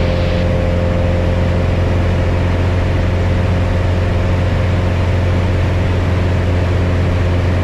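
Piper Cherokee 180's four-cylinder Lycoming O-360 engine and propeller droning steadily in cruise flight, heard inside the cabin. The engine is newly installed and in break-in.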